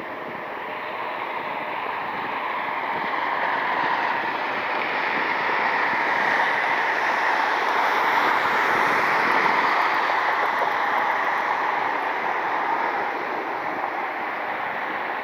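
Jet airliner's engines at takeoff thrust, a steady roar that builds to its loudest about halfway through and then slowly fades as the aircraft rolls down the runway.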